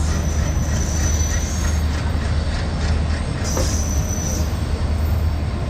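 Passenger train of ICF coaches running on the track with a steady low rumble, its wheels squealing high-pitched against the rails twice: once near the start and again more briefly about halfway through.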